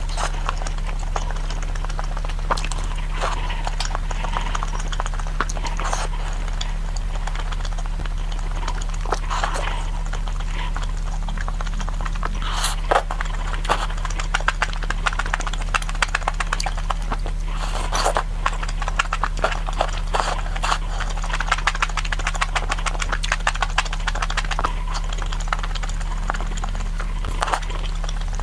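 Close-miked eating: fast chewing and lip-smacking, a run of short wet clicks that grows denser and louder through the middle. A steady low electrical hum runs beneath it.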